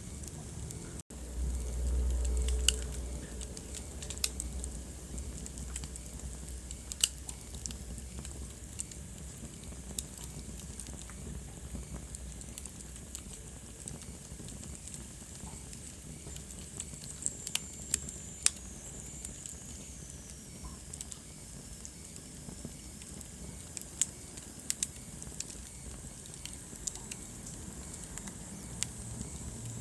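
Wood fire burning in a fireplace: steady low flame rumble and hiss with irregular sharp crackles and pops from the burning logs. The low rumble swells for a few seconds just after a brief dropout about a second in, and a faint high whistle falls in pitch about two thirds of the way through.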